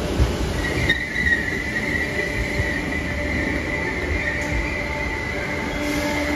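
Merseyrail electric train moving along the platform with a low rumble. About a second in, a high steady squeal from the wheels sets in and holds.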